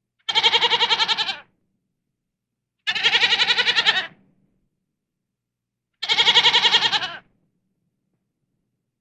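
An animal bleating three times, each call about a second long with a wavering, pulsing quality and clean silences between.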